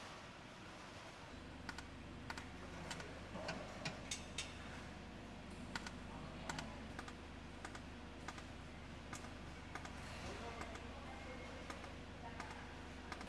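Faint, irregular light clicks and taps, as of small hard objects being handled, over a steady low hum that starts about a second in.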